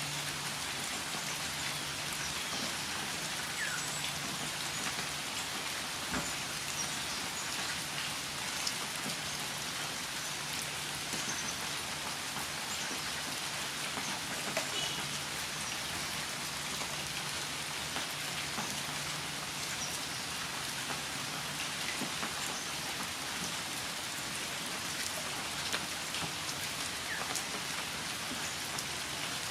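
Steady rain falling, an even patter of drops throughout, with a few faint short high chirps in the background.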